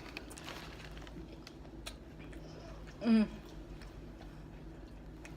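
Close-miked chewing of a sandwich, with faint wet mouth clicks. About three seconds in comes one short voiced sound from the eater, falling in pitch.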